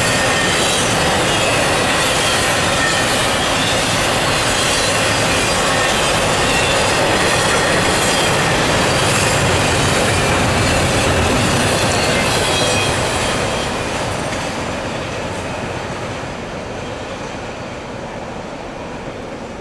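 Intermodal freight train of double-stack container well cars rolling past at close range: steady wheel and rail noise with regular clicking and a thin high squeal. The sound fades from about two-thirds of the way through as the train moves away.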